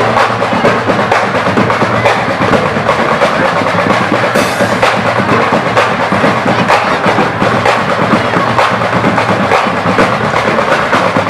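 Marching band playing, its drums prominent: snare and bass drums beating a fast, continuous rhythm.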